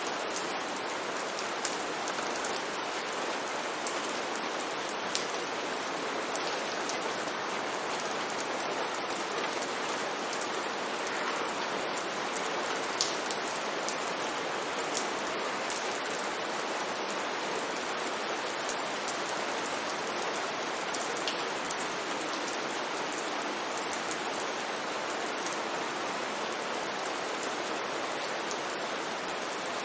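Steady rain falling on a street, an even hiss with scattered individual drops ticking.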